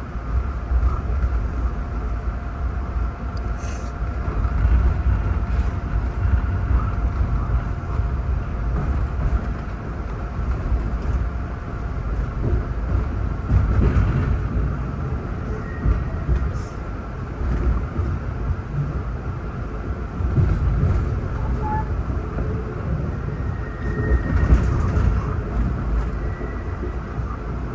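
Amtrak passenger train running on the track: a continuous low rumble with a faint steady hum and scattered light clicks.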